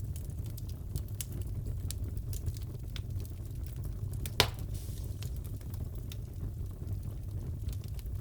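Wood fire crackling in a fireplace: a steady low rumble of the flames with scattered small crackles and one loud pop about four and a half seconds in.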